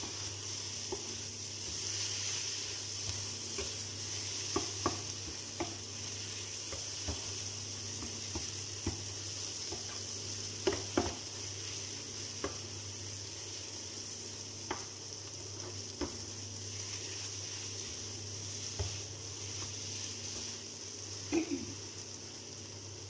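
Eggplant and sardine mixture sizzling steadily in a nonstick frying pan while a spatula stirs it, with scattered scrapes and knocks of the spatula against the pan. A steady low hum runs underneath.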